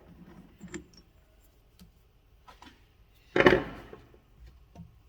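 Metal parts being handled on a lathe: a few light clicks and taps, with one louder, short knock about three and a half seconds in as a piece is set down.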